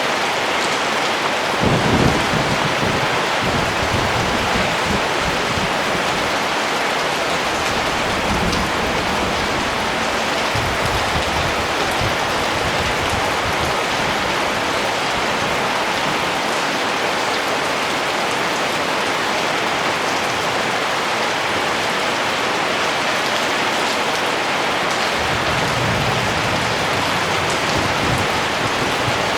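Rain falling steadily, an even hiss of many drops. Brief low rumbles come about two seconds in and again near the end.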